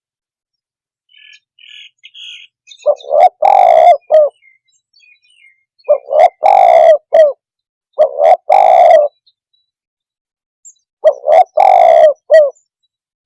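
Spotted dove (tekukur) cooing: four phrases a couple of seconds apart, each made of short coos around a longer, louder coo.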